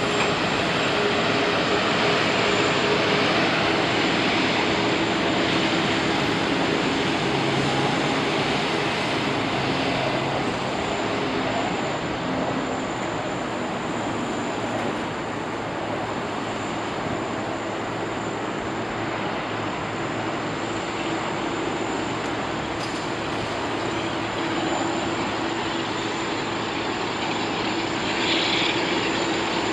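Jet airliner engines running, a steady rushing whine with a faint hum under it and no sharp changes, as from an aircraft taxiing or holding on the ground.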